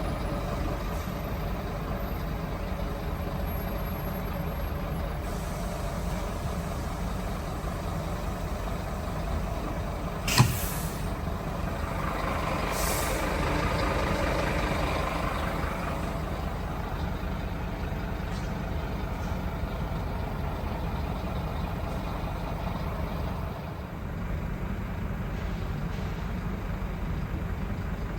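Scania lorry running on the road, heard from inside the cab as a steady engine and road rumble. A single sharp knock comes about ten seconds in, followed by a few seconds of louder rushing noise.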